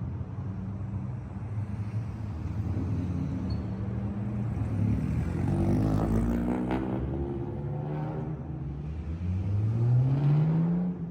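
A car engine running, rising in pitch around the middle and then climbing steadily again near the end as it revs up, loudest at that last climb.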